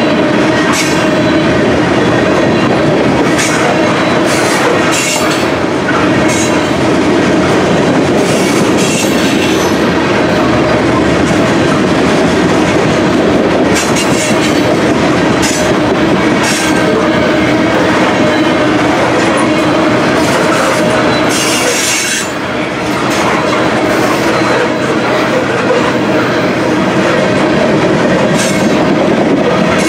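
Freight train of grain cars rolling past at close range: a steady, loud rumble of wheels on rail, with repeated brief high-pitched squeals and clicks from the wheels.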